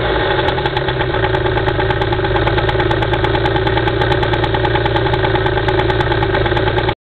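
Piaggio Ice scooter's 50cc two-stroke engine idling steadily after the revs settle, while its carburettor overflows, as the owner notes. The sound cuts off suddenly near the end.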